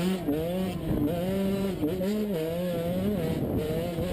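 A vehicle engine revving. Its pitch climbs sharply at the start, then rises and falls several times as the throttle is worked.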